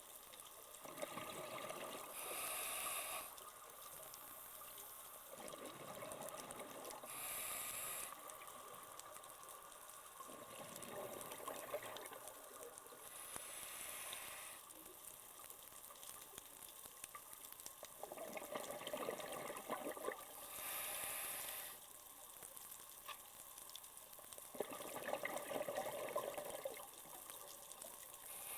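Scuba diver breathing through a regulator underwater, about five slow, irregular breaths. Each gives a gurgling rush of exhaust bubbles lasting a second or two and a shorter high hiss of air.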